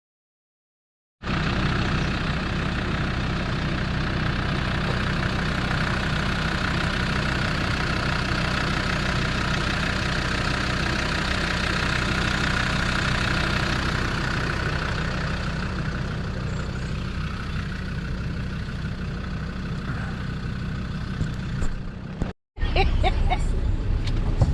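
Land Rover 4x4 engine running steadily, with a low even hum under broad road and cabin noise. It starts about a second in and cuts off suddenly near the end.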